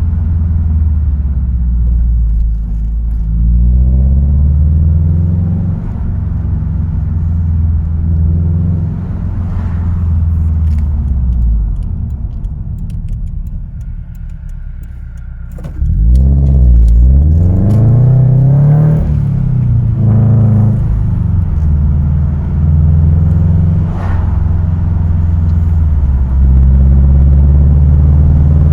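Car engine running, its revs rising and falling several times, with a drop to a lower, quieter run partway through and a sudden louder rise about sixteen seconds in; a few light clicks come in between.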